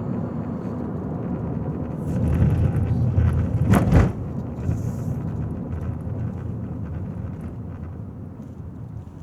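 Low rumble of a car on the road, swelling about two seconds in with a sharp knock just before four seconds, then fading away gradually.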